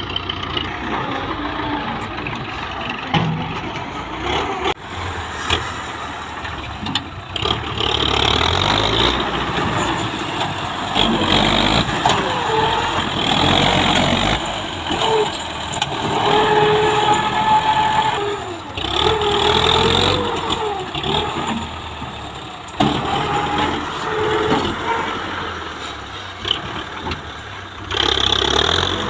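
Tractor diesel engine running hard, its pitch rising and falling again and again as it revs, louder from about eight seconds in.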